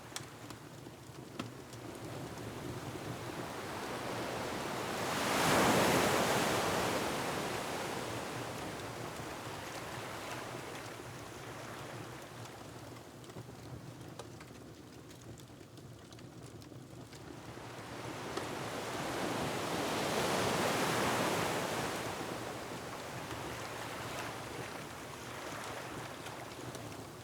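Ocean surf breaking against a rocky shore, with two big waves swelling up and washing away about fifteen seconds apart over a steady wash of water and wind. A few faint pops from a crackling wood fireplace sound beneath it.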